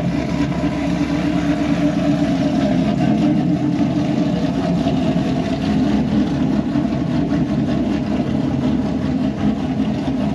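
Cammed 2018 Chevrolet Camaro SS's 6.2-litre LT1 V8 running steadily at idle through an MBRP quad-tip axle-back exhaust.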